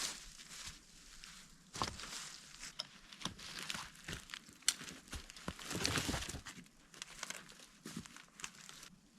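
Irregular rustling and crinkling with many small sharp snaps and crackles, coming in uneven clusters.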